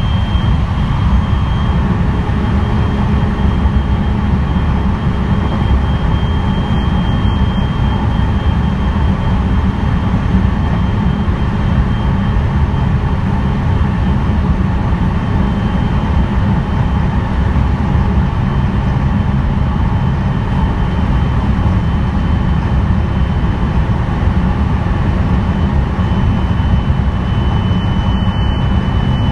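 Inside a JR West 223 series 3000 subseries electric train (Hitachi third-generation IGBT inverter) running between stations: a steady rumble of wheels and running gear at speed. A faint high steady tone comes and goes above it.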